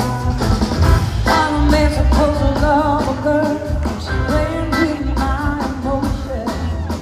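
Live blues-rock band performing with drums, bass and guitar, and a voice singing a wavering, held melody over it from about a second in.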